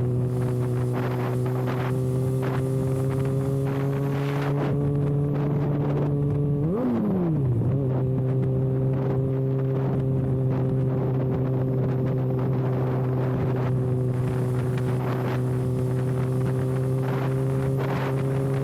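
Kawasaki ZX-6R inline-four with its exhaust canister removed, holding a steady engine note while riding. About seven seconds in the pitch briefly rises and drops, then settles back to the same steady note. Wind rushes over the microphone.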